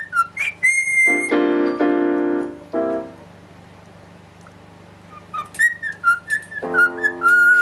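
Pet talking bird whistling: a run of short whistled notes, then fuller held tones about a second in, and another quick run of whistles with a held tone near the end.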